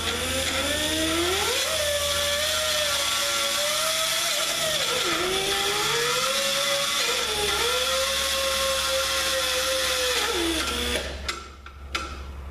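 Electric grinder grinding the metal of a flywheel. The motor spins up at the start, its pitch sags twice as the disc is pressed in, and it winds down near the end, followed by a few knocks.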